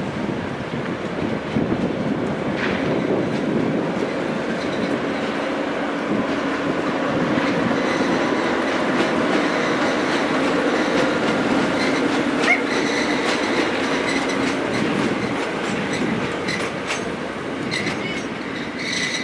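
A passenger coach and an SM42 diesel shunting locomotive roll past, wheels clattering over the rails under the steady drone of the diesel engine. Sharp wheel clicks come near the end.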